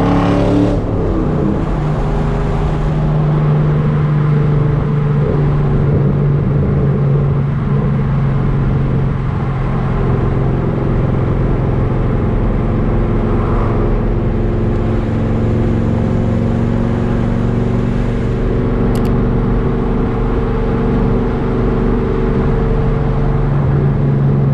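Camaro SS's LS3 V8 with long-tube headers and a loud exhaust, driving at steady revs with a deep, even drone after a brief drop in revs right at the start.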